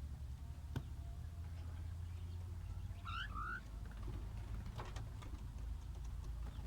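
Small aviary birds giving a few short chirps about three seconds in, over a steady low rumble.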